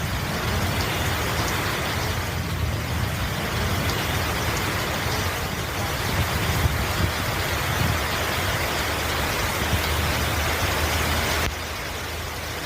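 Heavy rain falling, a steady hiss with a low rumble underneath. It drops a little quieter near the end.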